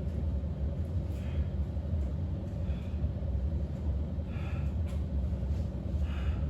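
A steady low rumble with a faint hum over it, and a few faint short sounds about every one and a half seconds.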